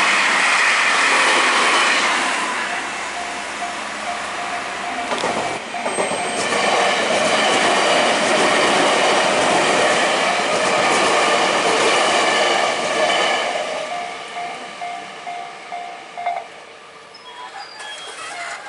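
Electric train passing close by at speed, its wheels clattering over the rail joints. The noise eases off and falls away over the last few seconds.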